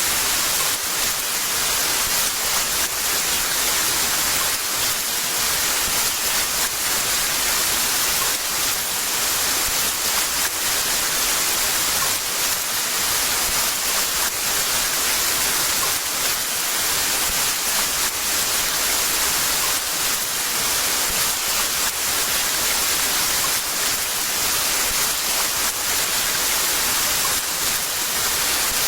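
Heavy rain falling steadily, a dense, even hiss with no thunder or other events.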